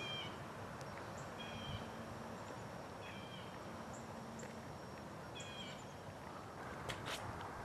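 Short, high bird calls repeated several times over quiet outdoor background hiss, with a couple of sharp clicks near the end.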